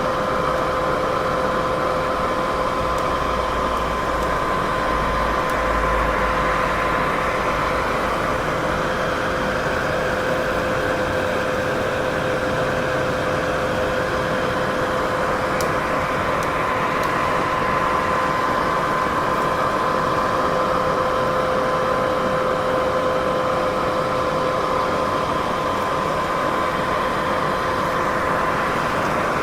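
Steady, unbroken white-noise-style hiss and rumble, with two faint steady tones humming through it.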